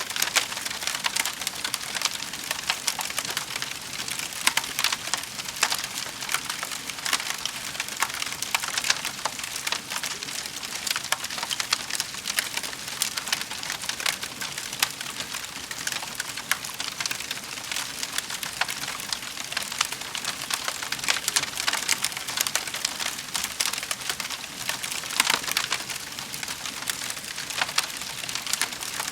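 Wood fire in a fireplace crackling steadily, a dense stream of small pops and snaps with a few sharper cracks.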